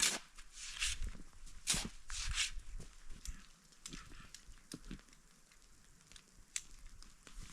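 Crunching and rustling in snow, as of footsteps and gear being handled while setting up camp. Several louder crunches come in the first couple of seconds, then fainter scattered clicks and rustles.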